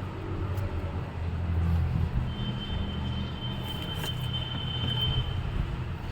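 A vehicle engine running as a low, uneven rumble, with a thin steady high whistle for about three seconds in the middle.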